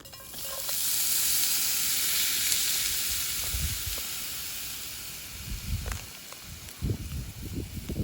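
Food sizzling in a hot pan over the fire. The sizzle sets in suddenly just after the start, is loudest for a couple of seconds and slowly dies down. Low thumps and knocks come near the end.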